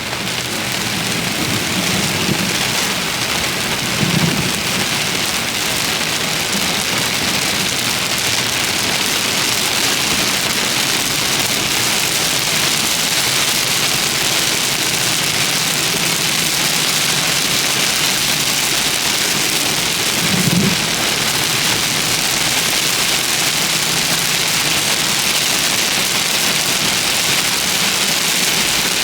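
Heavy rain of a severe thunderstorm falling and drumming steadily, with a few brief low rumbles about two, four and twenty seconds in.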